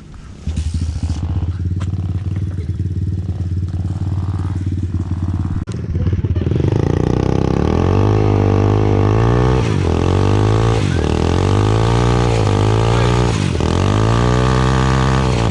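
Small mini-bike engine starting about half a second in and running steadily, then from about six seconds running louder with its pitch repeatedly rising and falling as it is revved.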